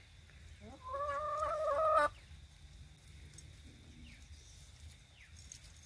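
A chicken gives one long call of just over a second, rising a little in pitch and cutting off abruptly.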